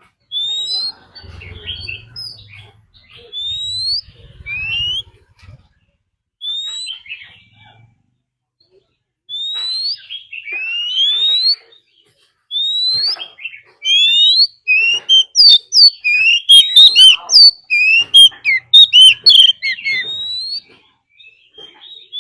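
Oriental magpie-robin singing its fighting song: clear rising whistled notes, spaced out at first, then a fast, loud run of varied whistles about two-thirds of the way in.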